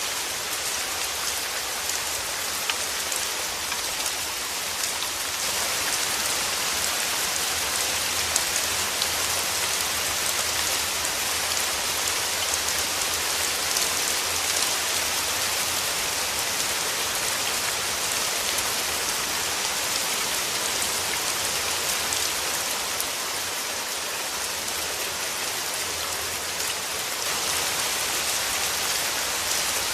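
Steady rain falling, a dense even hiss with faint scattered ticks of individual drops; it grows slightly louder about five seconds in.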